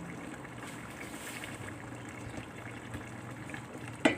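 Pot of lodeh (vegetables in coconut broth) simmering steadily on the stove, with one sharp knock near the end.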